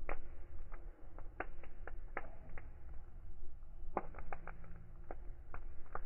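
Wood fire crackling: irregular sharp pops, several in quick succession about four seconds in, over a low steady rumble.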